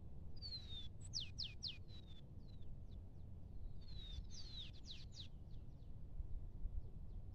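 A bird singing two short phrases a few seconds apart, each a quick run of high whistled notes that slide downward, over a low steady background rumble.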